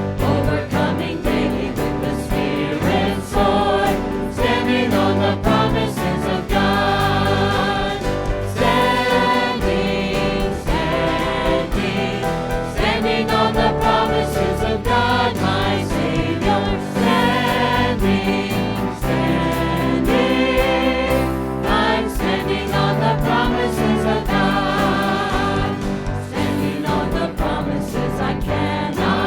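Congregational hymn singing in church: many voices singing together over a steady instrumental accompaniment.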